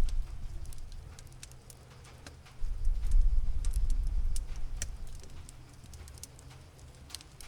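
Cat purring close up, a low rumble that swells and fades with its breathing, loud at the start and again from about two and a half seconds in. Scattered sharp pops and crackles of a wood fire run through it.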